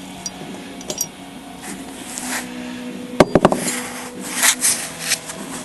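Metal tools and parts clinking and scraping during hand work on an engine installation, with a quick run of four or five sharp metallic clanks about three seconds in.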